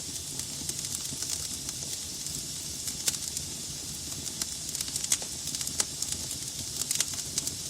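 Wood logs burning in a fireplace: a steady hiss with sharp crackles and pops scattered throughout, the loudest about three, five and seven seconds in.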